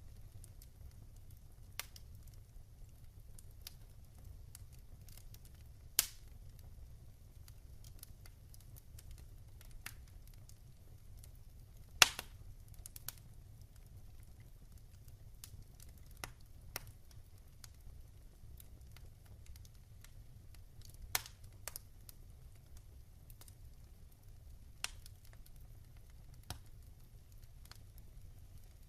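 Wood fire crackling: sparse sharp pops from the burning logs every few seconds, the loudest about twelve seconds in, over a low steady rumble.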